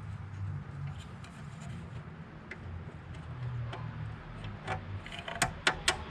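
Bolts and tools being handled during car gearbox reassembly: scattered light ticks, then a quick run of four or five sharp clicks near the end, over a low steady hum.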